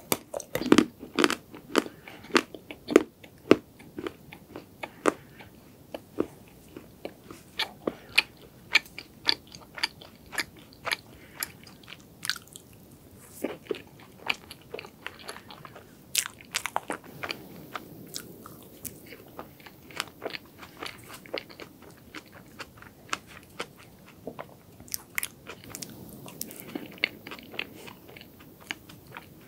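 Close-miked chewing of cake: a person's mouth making many sharp, wet clicks and smacks, densest in the first few seconds and then in looser clusters.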